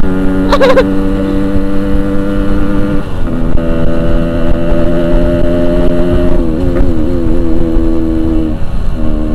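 Motorcycle engine running at steady revs. Its pitch steps up about three seconds in, then wavers and dips near the seven-second mark.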